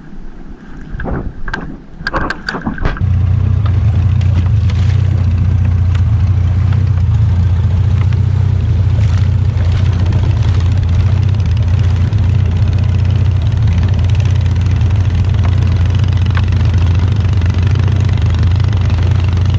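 A fishing boat's engine running with a steady low drone. It comes in suddenly about three seconds in, after a few knocks and clatter.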